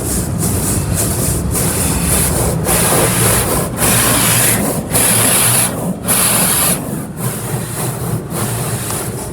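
Car wash side brushes scrubbing against the car's body, heard from inside the car: a loud rushing and rubbing that swells and eases roughly once a second.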